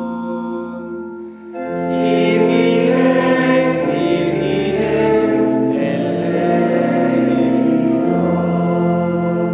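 Choir singing a sustained, slow chant of the Mass's penitential rite with instrumental accompaniment, its held chords changing every two to four seconds.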